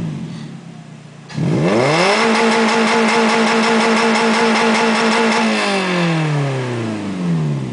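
Suzuki Aerio's four-cylinder engine heard through its exhaust: settling at idle, then revved up sharply, held at a steady high rpm for about three seconds, and let fall slowly back toward idle.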